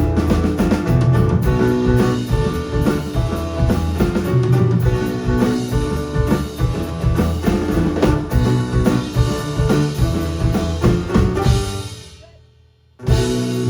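Live band music with drum kit and guitar. Near the end it falls away almost to silence, then comes back in abruptly about a second later.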